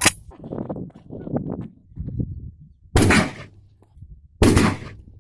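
Two gunshots about a second and a half apart, each a loud crack with a short fading tail.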